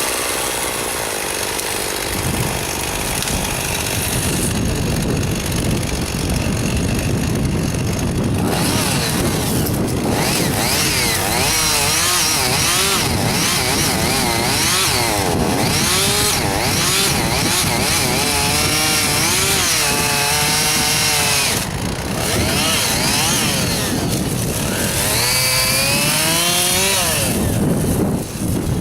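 Two-stroke chainsaw running hard and cutting wood. Its engine pitch keeps dipping and rising as the chain works through the cut.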